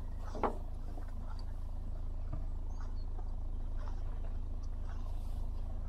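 Steady low engine hum, typical of a narrowboat's diesel engine running slowly, with one brief short sound about half a second in.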